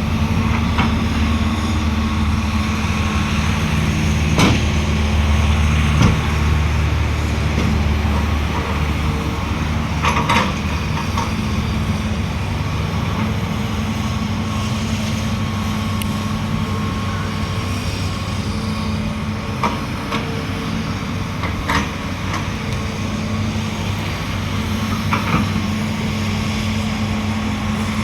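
Heavy diesel engines of an excavator and a dump truck running steadily. Now and then there is a sharp metal clank, about five in all, as the excavator bucket knocks against the steel truck bed while scraping out clay stuck in it.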